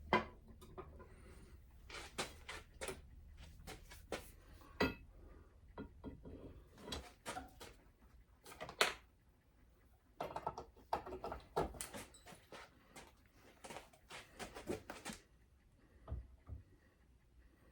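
Irregular clicks, clinks and light knocks of hand tools and metal parts being handled, in clusters with short pauses between.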